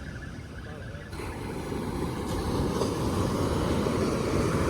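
Wind and surf noise on the beach, a steady rushing roar that jumps up sharply about a second in and stays loud.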